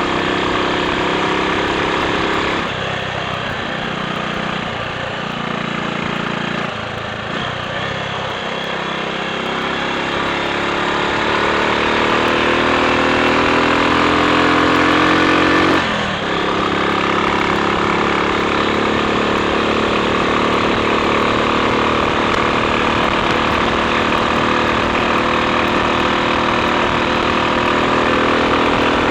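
Triumph Sports Cub's single-cylinder four-stroke engine running on the road, climbing steadily in pitch as the bike accelerates, then dropping sharply about sixteen seconds in at a gear change and pulling on evenly.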